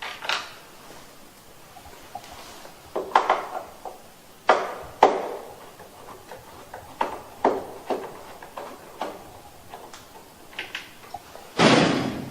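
Screws being taken out of the underside of a wall-mounted air conditioner's plastic casing: scattered clicks and knocks of a screwdriver against plastic, with a louder, longer scrape near the end.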